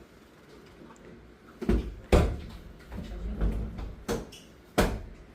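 A few sharp knocks and bangs with clattering between them: the loudest comes about two seconds in, another near the end.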